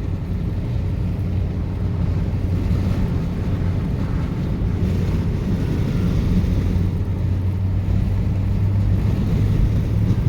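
Steady low drone of a vehicle under way at road speed, engine and road noise, with wind noise over it.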